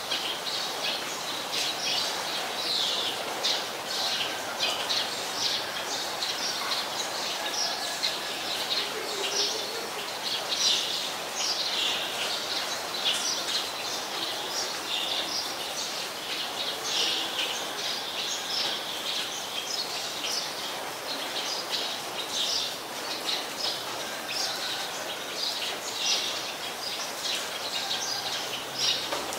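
Busy chatter of many short, high bird chirps, several a second, over a steady hiss.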